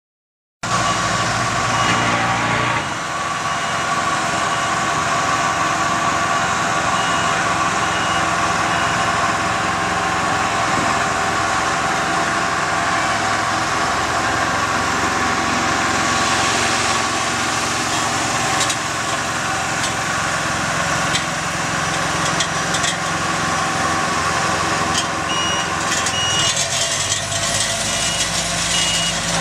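Heavy road-paving machinery engines running steadily, starting abruptly about half a second in. A reversing alarm beeps in the first couple of seconds and again over the last few seconds.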